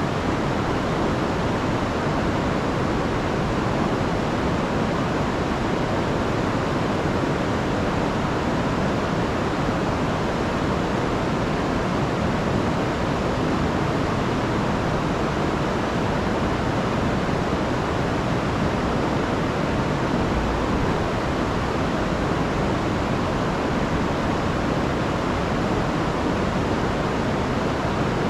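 Rain-swollen river rushing over a waterfall: a steady, dense roar of water that holds unchanged.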